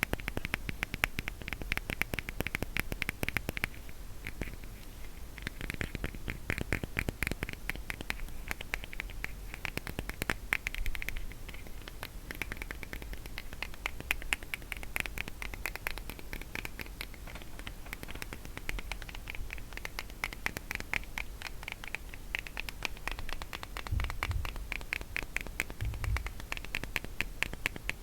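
Rapid fingertip tapping and scratching on a wax case: a dense, fast run of light clicks and scrapes, with two soft thumps near the end.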